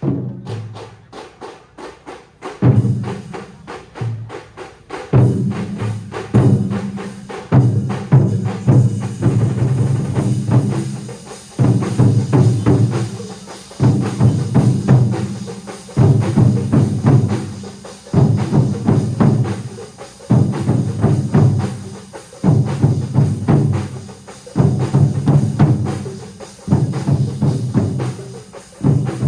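Large drum ensemble playing together, with fast, dense strokes throughout. After a lighter opening, heavy bass drumming comes in about two and a half seconds in and repeats in loud phrases roughly every two seconds.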